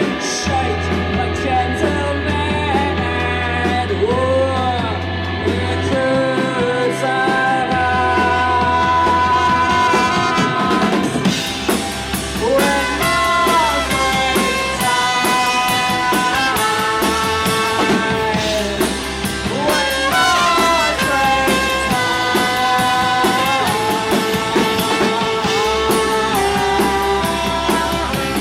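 Live rock band playing: drum kit and a steady bass line under sliding, pitch-bending melody lines.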